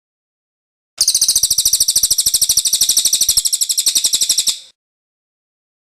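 Cililin bird singing its rolling trill ('ngerol'): one fast, high-pitched phrase of about fourteen even notes a second, lasting about three and a half seconds and stopping abruptly.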